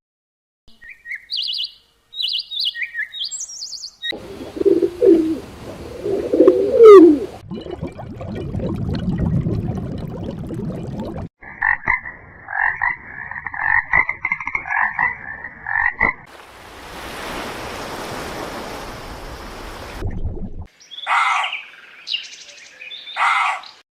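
A run of separate short animal calls: high chirps, a low gliding call, then a pulsed croaking trill lasting about five seconds, a stretch of steady hiss, and a few short high calls near the end.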